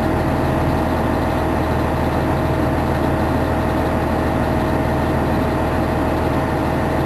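Fire engine's engine running steadily: a low hum with a thin steady whine above it.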